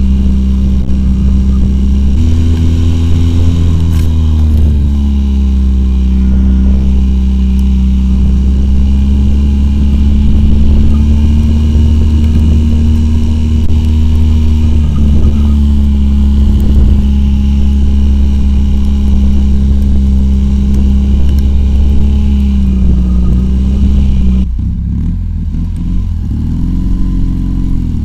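Homemade quad bike's two-cylinder Oka car engine running hard, its pitch rising and falling with the throttle. It drops off sharply near the end, then revs up again.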